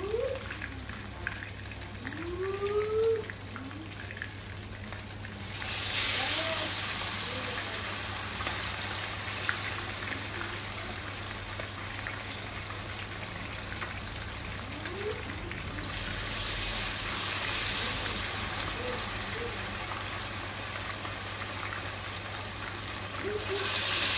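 Food sizzling in hot oil in a pan, a hissing sizzle that starts suddenly about five seconds in and surges louder twice more.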